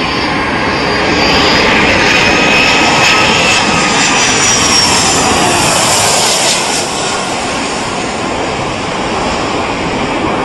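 Airliner landing, its engine noise swelling loudly for several seconds with a whine that slides down in pitch as it passes, then easing off.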